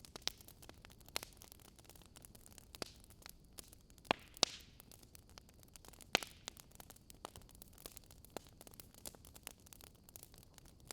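Wood fire crackling: irregular sharp pops and snaps over a low steady hiss, with a cluster of louder pops and a brief hiss about four seconds in.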